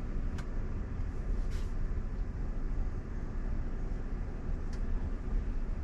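Road and tyre noise heard inside the cabin of a moving Waymo robotaxi: a steady low rumble, with a few faint clicks.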